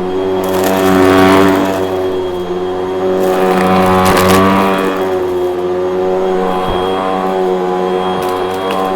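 Vacuum cleaner motor running with a steady whine, its sound swelling and easing a few times.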